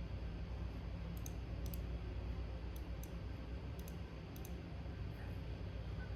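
Faint, sharp clicks, mostly in quick pairs, every half second to a second over a steady low hum.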